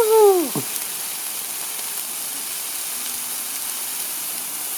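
Ten burger patties sizzling on a grill: a steady frying hiss.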